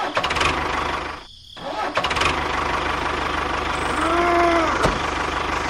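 An engine-like motor running steadily. It cuts out briefly about a second in and then carries on. Near the end a short rising-and-falling tone sounds over it, followed by a click.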